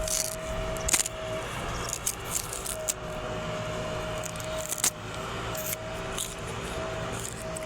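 JCB 3DX backhoe loader working, its diesel engine running with a steady high whine that breaks off briefly now and then. Sharp metallic clinks and knocks come through, the loudest about a second in and near the middle.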